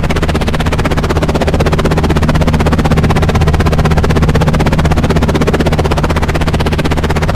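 Helicopter running steadily: a rapid, even beat from the rotor blades over a low, steady drone.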